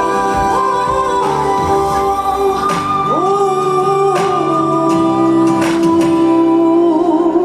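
Live band accompanying a female vocalist singing a slow ballad; she slides between notes and then holds one long note with vibrato.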